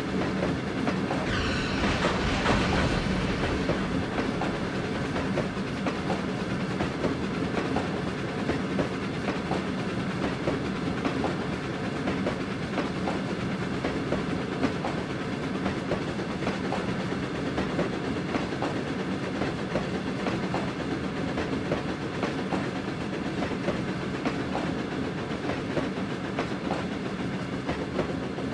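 Passenger train running along the track: a steady rumble with a constant low hum and a continuous clickety-clack of wheels over rail joints. A brief brighter rushing sound comes about two seconds in.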